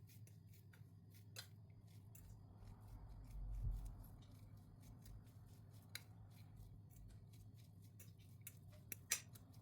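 Boiled potato being mashed and mixed with chopped onion, chillies and spices in a bowl, heard faintly as scattered small clicks, with a soft low thump about three and a half seconds in.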